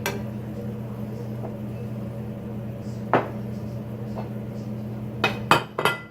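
Utensils clinking against a pan and dishes: one clink at the start, one about three seconds in, and a quick run of clinks near the end, over a steady low hum.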